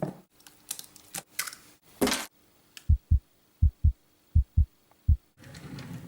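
Heartbeat sound effect: low double thumps beating about four times at a slow, even pace, after a few short clicks. A soft rustling noise starts near the end.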